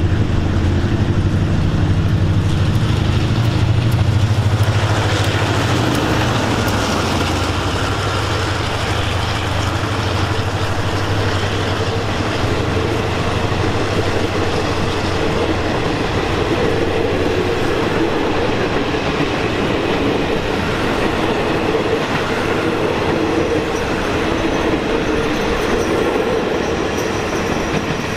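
Diesel locomotive and passenger carriages of an express train passing close by: the locomotive's engine drone dominates for the first few seconds, then gives way to a steady rush of carriage wheels clattering along the rails.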